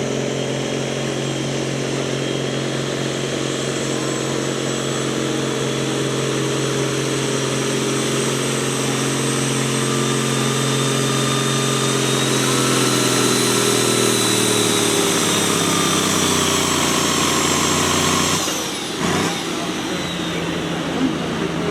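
Pulling vehicle's engine running hard at a steady pitch. About two-thirds in, its pitch sinks over several seconds, then the sound drops away briefly before the engine runs on.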